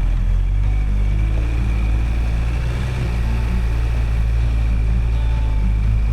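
A vehicle driving, with a steady low engine and road drone.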